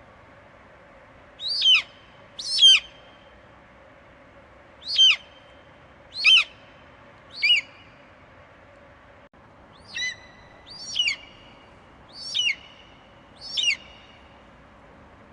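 Eagle screeching: nine short, sharp calls, each falling in pitch, spaced about one to two and a half seconds apart, over a faint steady background hiss.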